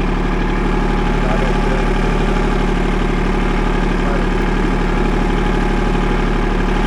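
Kubota L2501 compact tractor's diesel engine idling steadily.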